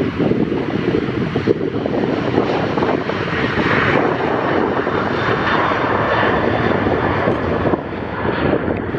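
An airliner's engines passing, swelling to their loudest in the middle and easing near the end, with heavy wind rumbling on the microphone.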